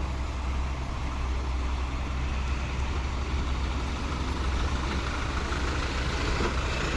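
Heavy dump truck's diesel engine running steadily at low speed, a deep even rumble.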